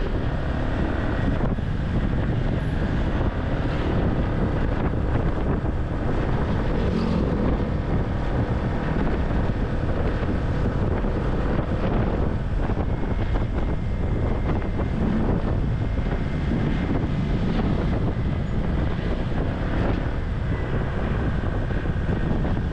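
Wind buffeting the microphone over motorcycle engine and road noise, heard from a moving motorcycle taxi. A steady rumble with no break.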